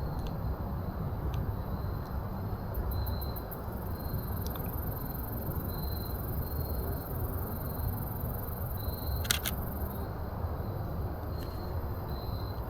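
A single Canon EOS RP camera shutter click about nine seconds in, over a steady low rumble and insects chirping in short, evenly repeated calls.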